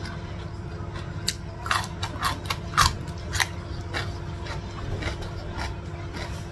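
Crisp crunching of a raw cucumber slice being bitten and chewed: a quick run of sharp crunches between about one and three and a half seconds in, with a few softer chews after, over a steady low background hum.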